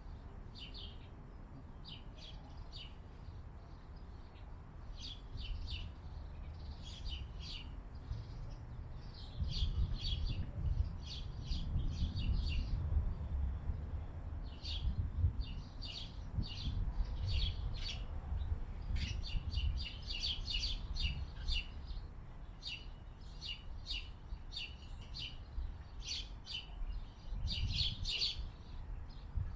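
Small songbirds chirping over and over, short high notes in quick runs, over a low rumble.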